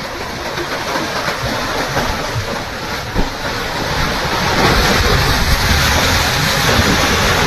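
Loud rushing water, surging steadily and growing louder about four and a half seconds in.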